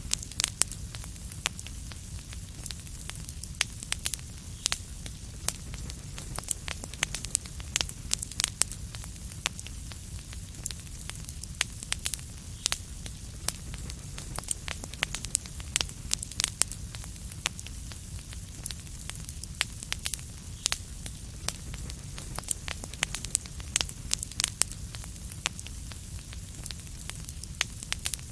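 Wood fire crackling in a fireplace: frequent irregular sharp pops and snaps over a steady low rumble and hiss.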